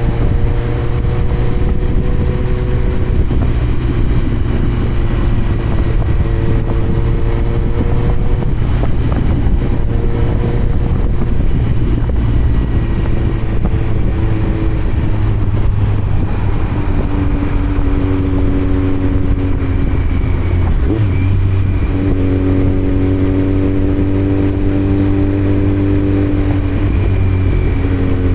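2018 Kawasaki Z900's inline-four engine running loud through a Yoshimura muffler and Delkevic headers with no dB killer, under way on the road. The note holds steady for stretches and shifts up and down in pitch several times as the throttle and gears change, over a deep low rumble and road noise.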